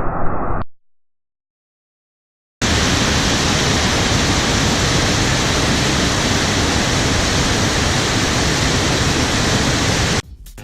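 Loud, steady rush of floodwater on the Arno, starting abruptly after a short silence about two and a half seconds in. Before the silence, a duller rushing noise cuts off less than a second in.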